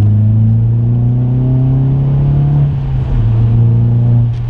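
Volkswagen Polo GTI's 1.8 TSI turbocharged four-cylinder engine accelerating, heard from inside the cabin, its note climbing slowly with a brief dip about three seconds in before rising again.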